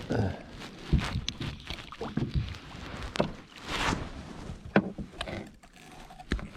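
Irregular knocks, clicks and rustling of someone moving about and handling gear in a fishing kayak.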